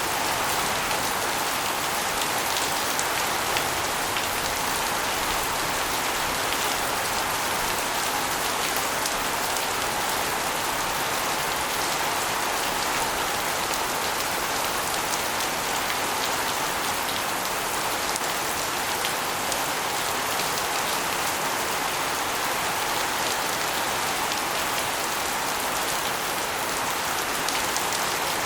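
Steady rain, with water running off an asbestos roof and splashing onto a concrete floor and walls in a dense, even patter.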